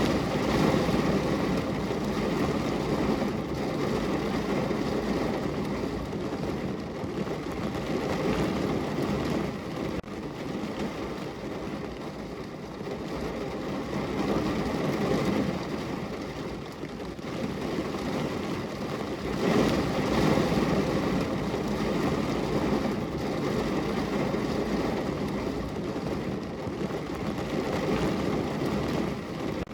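Heavy rain falling on a car's roof and body, heard from inside the car: a dense, steady patter that swells louder every several seconds and then eases.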